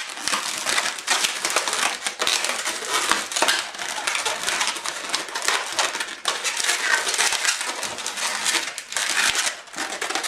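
Inflated latex twisting balloons being handled and worked by hand, the rubber rubbing against itself in a dense, continuous crackling rustle.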